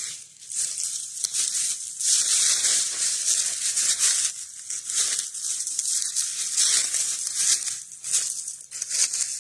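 Footsteps crunching through dry fallen leaves on the forest floor: a dense, irregular crackling rustle that comes and goes with each step.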